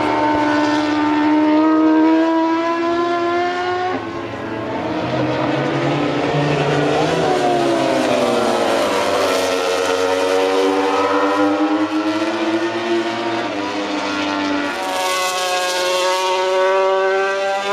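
MotoGP racing motorcycle engines at very high revs, their pitch climbing, dropping sharply and climbing again several times.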